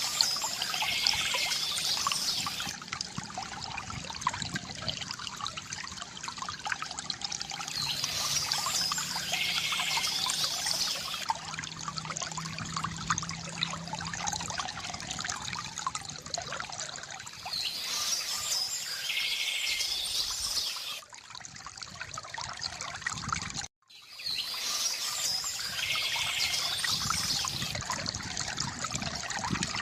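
Water trickling and pouring from a bamboo fountain, with birds singing in four short spells about every eight or nine seconds. The sound drops out for an instant about three-quarters of the way through.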